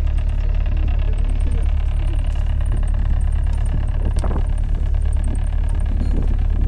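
A boat engine running steadily, a loud constant low drone heard on board, with a brief louder sound about four seconds in.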